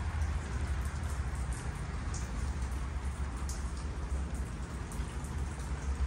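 Steady rain: an even hiss with a few scattered drip ticks, over a low steady rumble.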